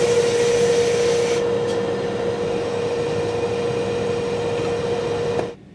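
Locomotive-hauled Flixtrain passenger coaches rolling slowly past along the platform: a steady rumble of wheels and running gear with a constant humming tone. The sound cuts off abruptly near the end.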